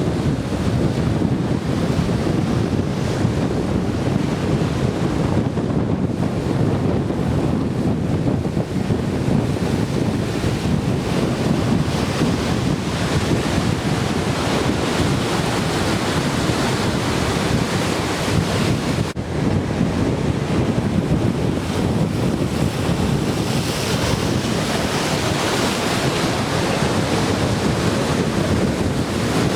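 Ocean surf breaking and washing on a beach, heavy with typhoon swell, with wind buffeting the microphone; a steady, continuous rush.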